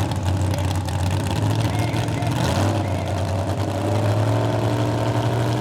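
An engine idling steadily. Its pitch shifts slightly about halfway through, then holds.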